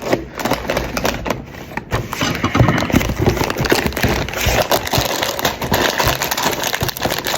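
A knife cutting and scraping through a cardboard box, a dense irregular run of short rasping, crackling strokes.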